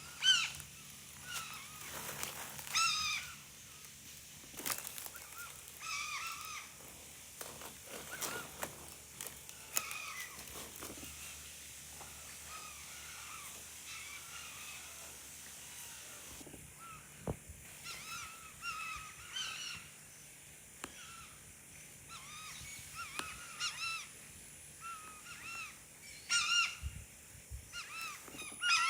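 Birds calling: many short, arched, repeated calls, coming in clusters throughout.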